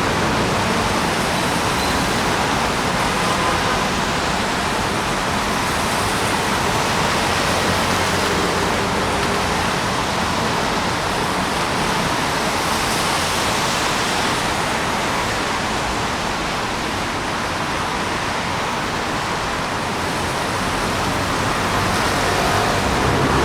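Steady hiss of rain and of traffic on a wet city street, with no single event standing out.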